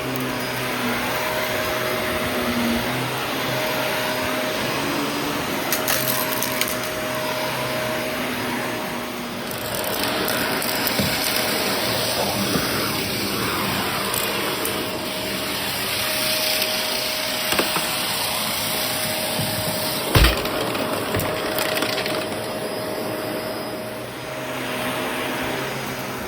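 Shark vacuum cleaner running steadily with a constant whine, with a few light clicks and one sharp knock about twenty seconds in.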